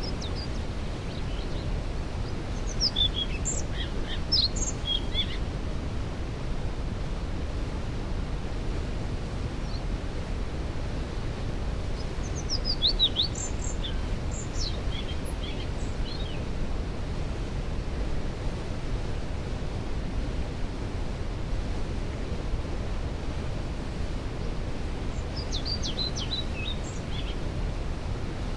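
Steady rush of a waterfall. Over it a songbird sings three short phrases of quick, high notes, about three seconds in, about thirteen seconds in and near the end.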